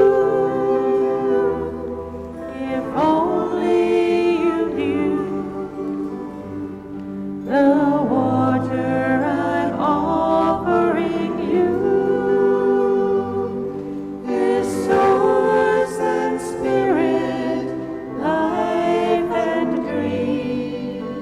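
A slow sung song: voices holding long notes over soft, low accompaniment.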